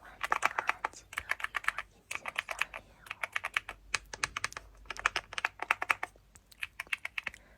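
Fast typing on a computer keyboard: rapid key clicks in runs of about a second, broken by short pauses.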